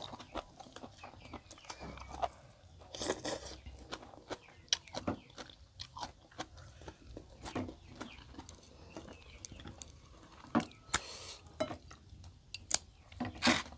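Close-up chewing and biting of food as two people eat with their hands: many short, sharp, wet clicks, with a few louder crunches, the loudest near the end, picked up by a clip-on microphone.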